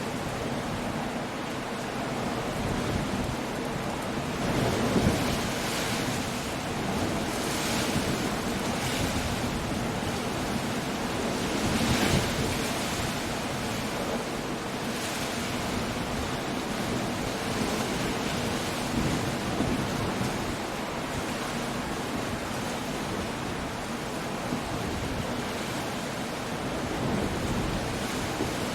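Coastal storm: waves breaking against rocky cliffs, with rain and wind making a steady rushing noise that swells louder about five seconds and again about twelve seconds in.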